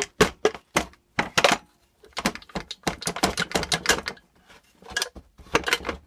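Repeated sharp smacks on a 1977 Briggs & Stratton engine case, struck to break the stuck crankcase cover loose after its bolts are out. A quicker run of blows comes in the middle.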